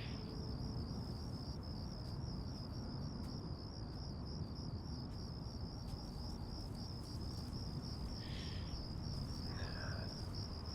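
Crickets chirping in a steady, even pulse over a low background hiss.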